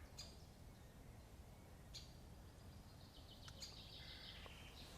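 Faint high-pitched bird calls, with a run of quick repeated notes in the second half, over a low steady rumble.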